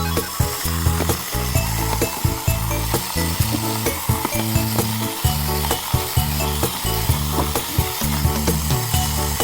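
Many battery-powered Thomas toy trains running together on plastic track: a dense, crackling clatter of small motors and wheels, over low notes that change every half second or so.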